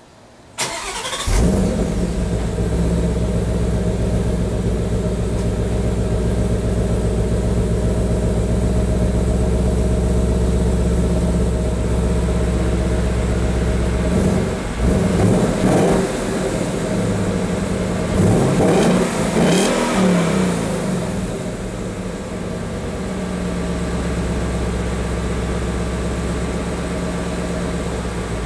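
A 2016 Ford Mustang's engine being started: a brief crank, then it catches with a flare about a second in and settles into a steady idle. It is revved several times about halfway through, then drops back to idle.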